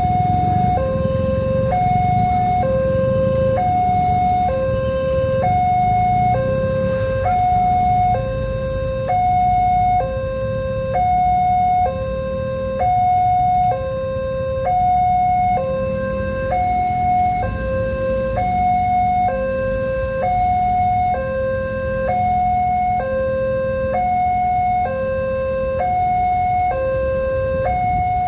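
Railroad level-crossing warning alarm sounding a two-tone hi-lo signal, each tone held about a second and alternating evenly, warning that the gates are closing for an approaching train. A low rumble runs underneath.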